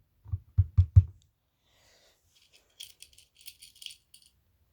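Four dull low thumps from handling the parts, then a light metallic rattling and clinking of small loose metal pieces.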